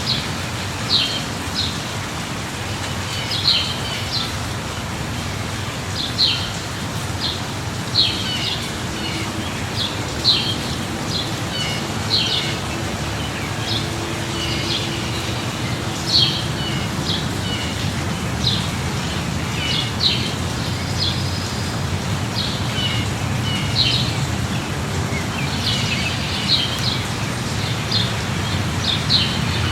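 Steady light rain with a songbird chirping repeatedly, short high calls about every second or two, over a low steady rumble.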